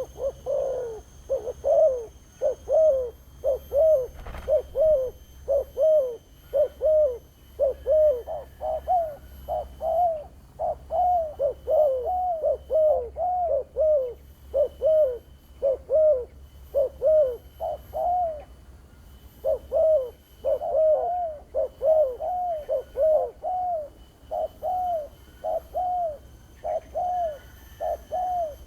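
Spotted dove (terkukur) cooing in a long, sharp, piercing run of short coos, each rising and falling in pitch, following closely one after another with a couple of brief pauses.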